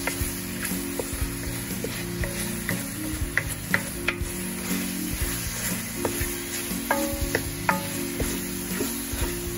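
Shrimp and chopped peppers sizzling in oil in a metal pot while a wooden spoon stirs them, with scattered clicks and scrapes of the spoon against the pot.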